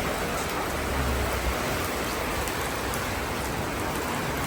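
Heavy rain pouring down: a steady hiss with scattered drops ticking close by.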